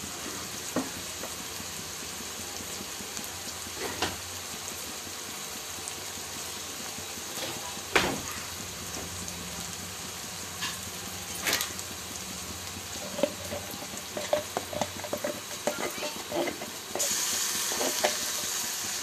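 Chopped onions, green chillies and whole spices frying in oil in a steel kadai, a steady sizzle, broken by a few sharp clinks of a utensil against the pan, the loudest about eight seconds in. Toward the end come quicker taps and the sizzle grows louder.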